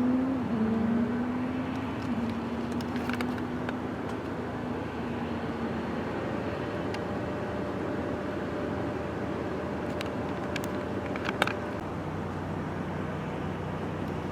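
Jet airliner engines running at the airport: a steady whine that settles after rising and fades by about halfway, then a higher steady tone over a constant rush.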